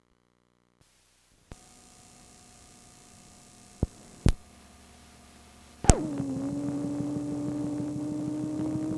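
A few sharp clicks, then about six seconds in a loud click and a steady hum with a low, pulsing rumble begin: a vehicle running.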